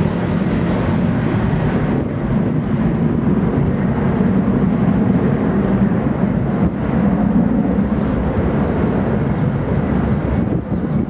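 Jet airliner's engines running, a loud steady noise heavy in the low end that continues without a break.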